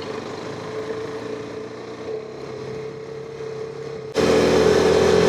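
KTM 390 Adventure's single-cylinder engine running steadily under load, climbing a steep dirt road. About four seconds in the sound suddenly gets much louder, with more wind and road hiss.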